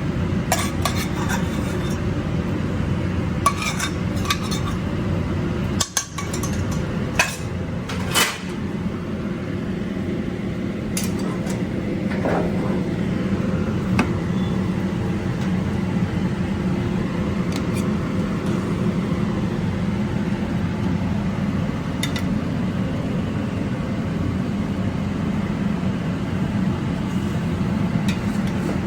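Serving utensils clinking and scraping against a pan and a serving platter as food is plated, with the sharp clinks most frequent in the first half. A steady low hum runs underneath.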